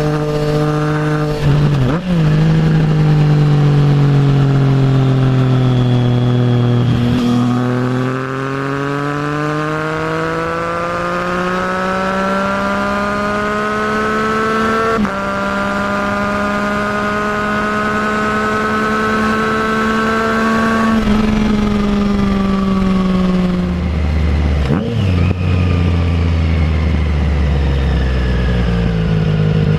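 Triumph Trident 660's inline-three engine through a full Zard exhaust, ridden on the road. The engine note falls as the bike slows, then pulls up through the revs, with a quick gear change about halfway through. It climbs a little more, then drops back to a low, steady note near the end.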